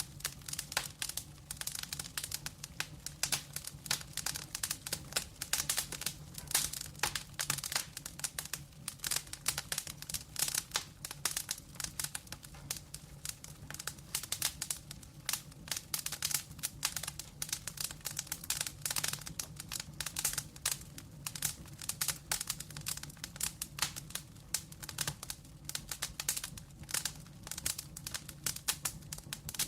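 Burning log fire crackling, with dense, irregular pops and snaps over a steady low hum.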